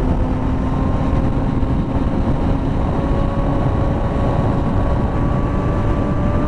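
Motorcycle engine running at road speed, its note rising slowly and steadily, under heavy wind noise on the helmet microphone.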